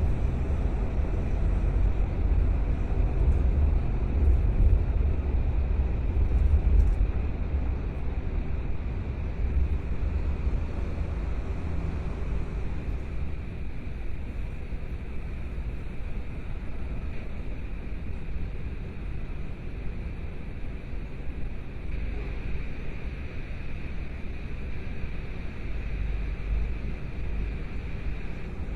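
A car driving along: steady low engine and road rumble, easing a little about halfway through.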